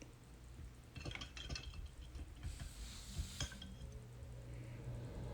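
Paintbrush rinsed in a water cup, clinking against its side: a cluster of light clinks about a second in, then a short swish and a few more clinks around three seconds.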